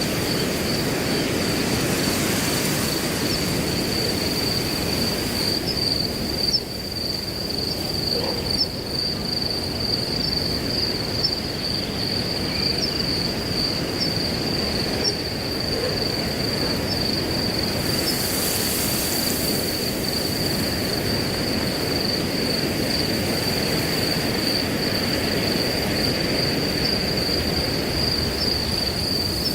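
Crickets trilling in one steady, unbroken high tone over the rush of wind through grass. A faint short chirp repeats about once a second through the first half, and a brief gust adds a higher hiss about two-thirds of the way in.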